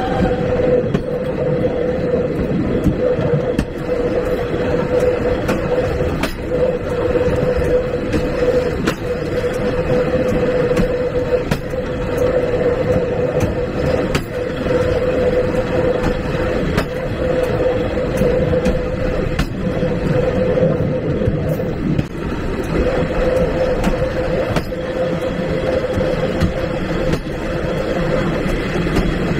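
Railway coaches rolling along the track, heard from the last car of the train: a steady rumble with scattered clicks from the wheels. A sustained whine is held through most of it, breaking off briefly now and then.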